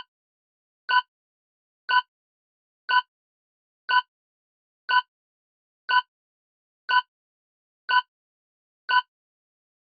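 Quiz countdown timer sound effect: short, identical electronic ticks, one a second, ten in all.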